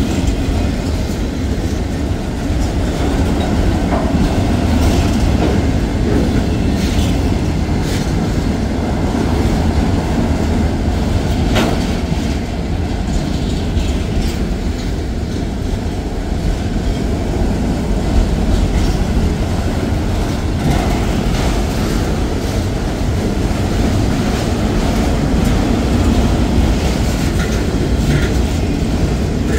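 Norfolk Southern manifest freight train's autorack cars rolling past: a steady low rumble of steel wheels on rail, with scattered sharp clicks and clanks, the sharpest a little before halfway.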